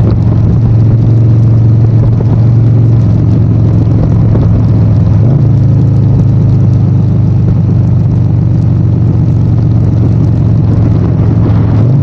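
Harley-Davidson Sportster 1200's air-cooled V-twin engine running loud and steady, its pitch shifting slightly about five seconds in.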